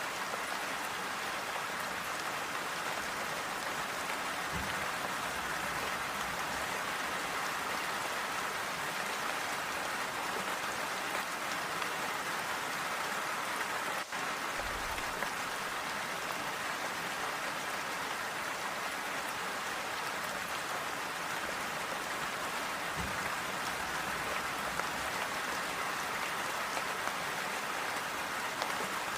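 Steady rain falling on clay roof tiles: an even hiss of many drops, with no thunder.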